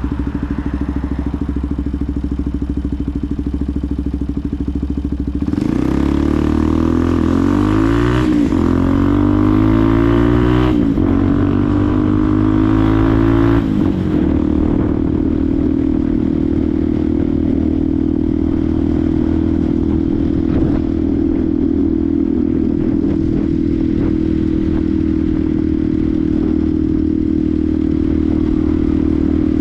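Benelli TNT 125's single-cylinder 125cc four-stroke engine running steadily, then, about five seconds in, accelerating hard: the pitch rises three times with two sudden drops as it shifts up through the gears. After that it settles into a steady cruising note.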